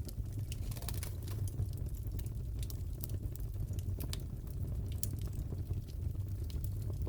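Fireplace fire burning: a steady low rumble with frequent, irregular sharp crackles and pops.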